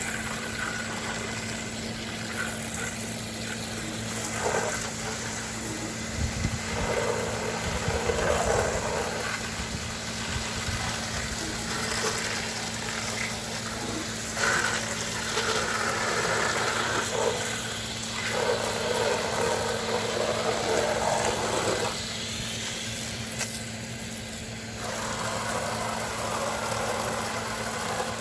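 Pressure washer running steadily, its water jet hissing against vinyl siding and windows, the spray sound swelling and fading every few seconds as the wand moves across different surfaces.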